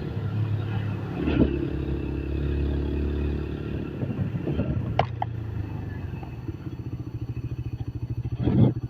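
TVS Apache RTR single-cylinder motorcycle engine running. In the second half its idle beats as a distinct, even pulse, and there are a few short sharp knocks, the loudest near the end.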